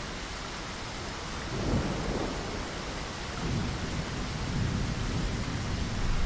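Steady rain hiss with low thunder rumbling in, first about a second and a half in and again from about three and a half seconds, building louder toward the end.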